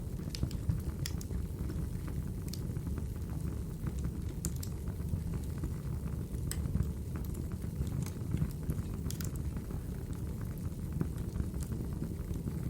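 Wood fire burning in a fireplace: a steady low rumble of flames, with sharp crackles and pops from the burning logs every second or so.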